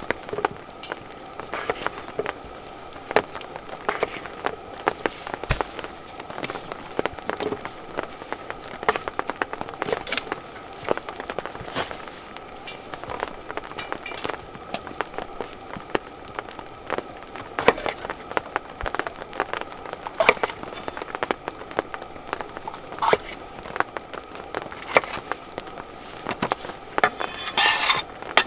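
Wood campfire crackling, with irregular sharp pops and a dense run of crackles near the end.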